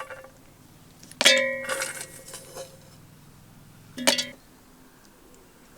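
Two ringing clinks of kitchenware, a utensil striking a container, about three seconds apart, as ingredients are tipped in.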